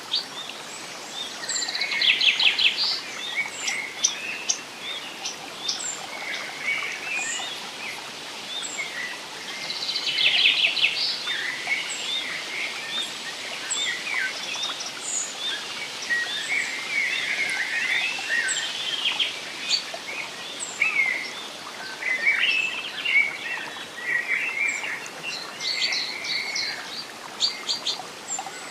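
A chorus of several songbirds chirping and singing, with short high calls overlapping throughout and two loud rapid trills, about two seconds in and about ten seconds in, over a faint steady hiss.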